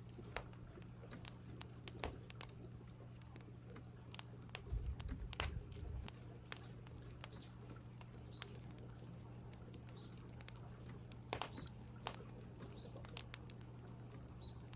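Short, high bird chirps about once a second from roughly six seconds in, over scattered sharp clicks and pops and a steady low hum.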